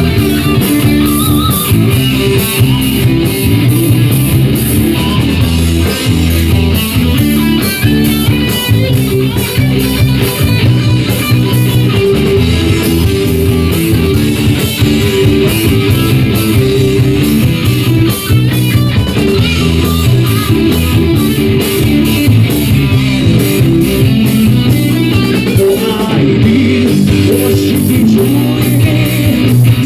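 Live rock band playing an instrumental passage, led by guitars over bass and a steady drum beat.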